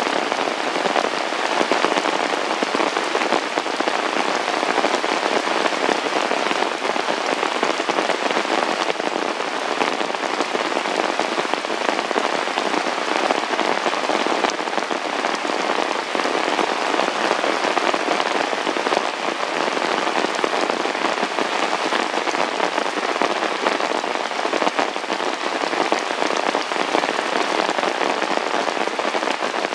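Heavy rain falling steadily: an even, unbroken hiss of drops striking surfaces.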